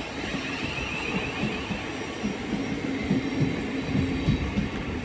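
Southeastern Class 707 electric multiple unit pulling into the station, its wheels rumbling steadily on the rails with irregular low knocks and a faint, wavering high whine.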